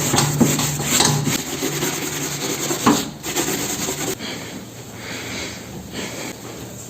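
Scrubbing on a microwave oven, rubbing stroke after stroke, louder for the first four seconds, then softer.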